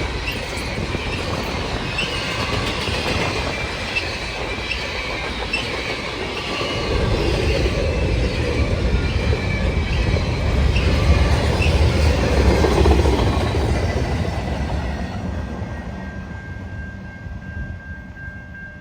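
Freight train rolling past, its steel wheels clicking over rail joints with brief squeals from the wheels. A deep rumble swells about a third of the way in, then fades away toward the end.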